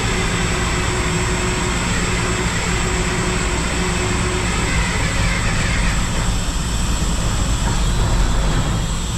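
The 1974 Mack R-model truck's diesel engine being started after valve and pushrod work, running steadily. It doesn't sound right, which the owner puts down to the fuel not being all there yet.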